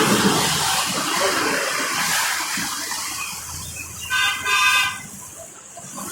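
A vehicle horn honks twice in quick succession about four seconds in, over a steady hiss of traffic on a rain-soaked road.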